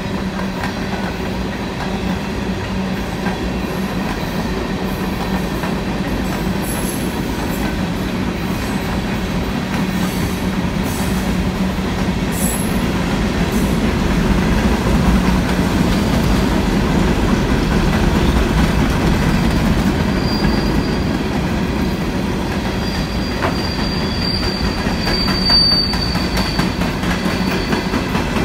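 CSX coal hopper cars of a freight train rolling past: a steady noise of steel wheels on rail that grows a little louder in the middle. A thin high wheel squeal comes in during the last third.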